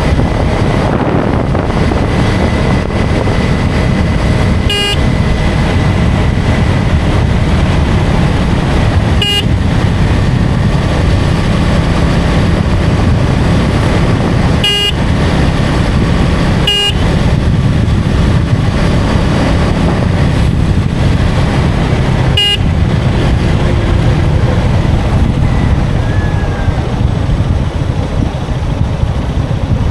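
KTM Duke 250's single-cylinder engine running under way with wind rush, and a vehicle horn giving five short toots spread through the ride.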